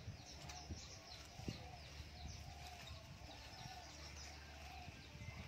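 Faint birdsong: a run of short, arching calls repeated a few times a second, with quick higher chirps above them. A soft knock comes about one and a half seconds in.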